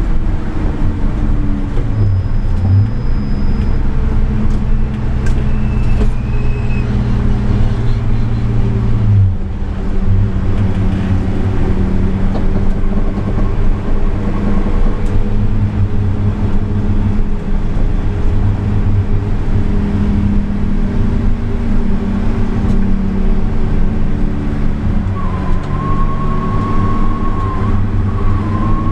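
Car engine and exhaust running hard at speed on track, the note rising and falling slowly with throttle and gears, with a brief lift about nine seconds in.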